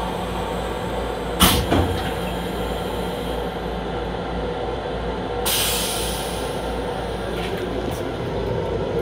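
Steady running rumble of a Long Island Rail Road M7 electric railcar in motion, heard from inside its small restroom. A sharp knock comes about a second and a half in, and a short hiss about halfway through.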